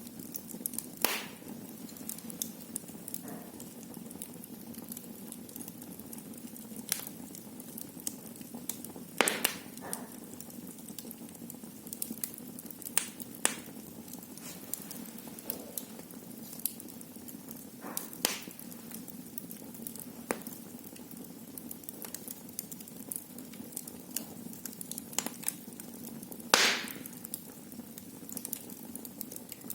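Wood fire burning in a fireplace, crackling steadily with irregular sharp pops, a few louder snaps about a second in, around the middle and near the end.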